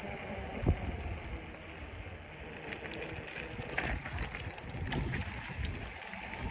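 Bicycle ride with wind buffeting the microphone over a steady rumble, and scattered light clicks. A single sharp knock comes a little under a second in.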